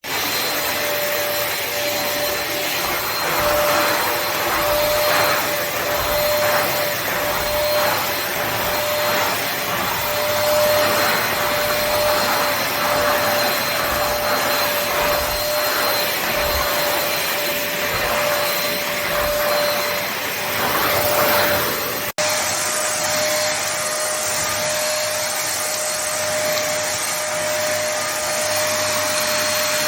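Home-Tek Powersonic 2-in-1 stick vacuum cleaner running, a steady motor whine over airflow noise that swells and dips every second or so. About 22 seconds in there is an abrupt cut, after which it runs more evenly.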